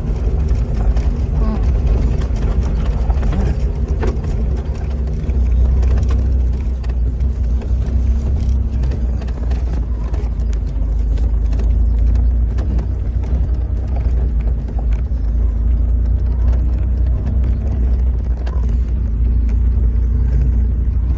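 A steady low rumble of a vehicle or motor on the move, holding an even level throughout.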